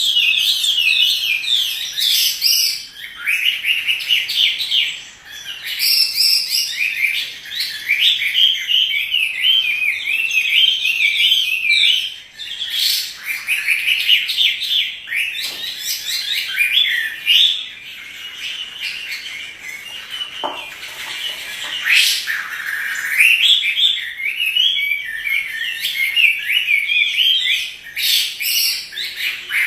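Chinese hwamei in full song: a long, rapid, varied warbling of quick rising and falling whistled notes, broken by short pauses every several seconds.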